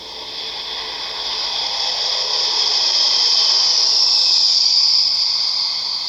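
Boeing 747 jet aircraft passing by: a hissing jet-engine sound that builds to a peak about four seconds in and then fades.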